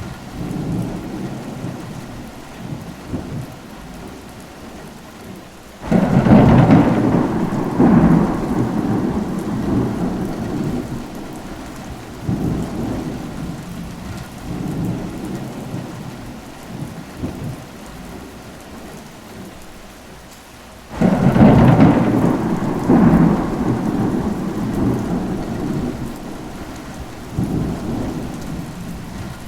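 Steady rain with thunder. Two loud claps break in suddenly, about six seconds in and again about two-thirds of the way through, each rolling away over several seconds, with fainter rumbles between them.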